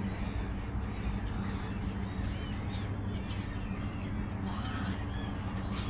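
A large flock of birds calling, many small overlapping chirps, over a steady low hum.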